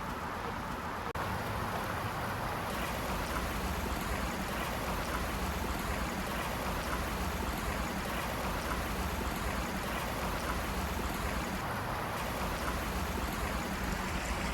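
Steady rush of a forest creek's flowing water, a little louder from about a second in.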